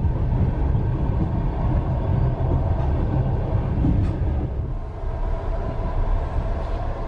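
Russian sleeper train running, heard from inside the carriage: a steady low rumble of wheels on the track.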